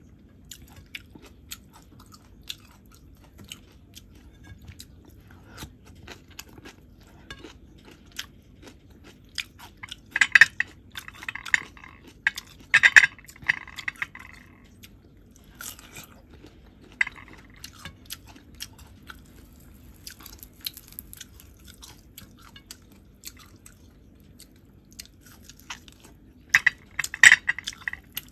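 A person chewing food with many small wet mouth clicks, and louder crunchy bites in clusters about ten and thirteen seconds in and again near the end.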